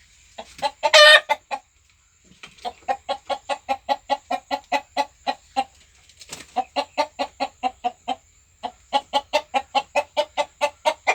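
Desi chickens clucking in long quick runs of short calls, about five a second, broken by a loud drawn-out squawk about a second in and another near the end.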